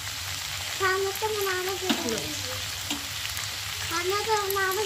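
Peas and onions sizzling steadily as they fry in oil in an aluminium kadai, with a metal spatula stirring and clicking against the pan a couple of times. A high-pitched voice is heard briefly twice.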